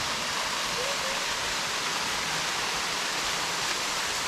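Steady rush of water tumbling over rocks in a jungle stream with small waterfalls.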